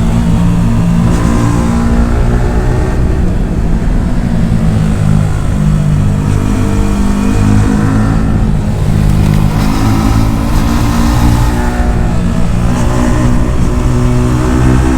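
Yamaha R15 V4's single-cylinder engine through an aftermarket Akrapovic exhaust, ridden hard, the exhaust note rising and dropping repeatedly with throttle and gear changes.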